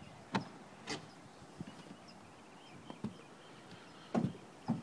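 About six scattered, irregularly spaced knocks and taps over a quiet background.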